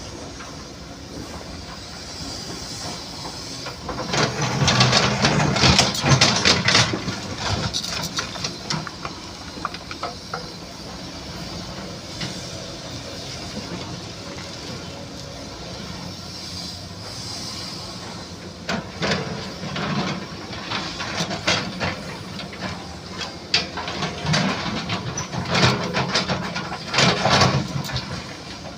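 SANY SY215C hydraulic excavator working on a dig: the diesel engine runs steadily, with loud bursts of clattering and hissing around four to seven seconds in and again through the last third.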